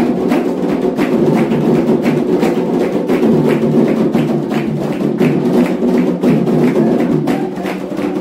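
Candomblé ritual percussion: atabaque hand drums with a struck iron bell playing a steady, fast repeating rhythm for the orixá Xangô's dance.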